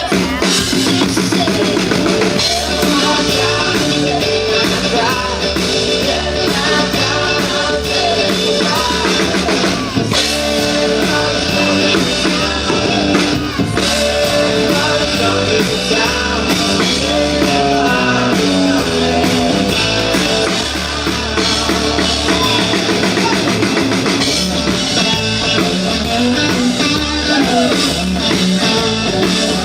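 Live rock-style band music: drum kit and electric guitar playing an up-tempo Christmas song, with singing.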